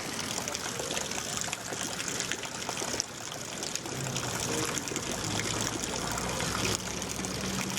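Heavy rain falling and water running on a flooded street, a steady hiss of splashing and trickling. A low steady hum joins about halfway through.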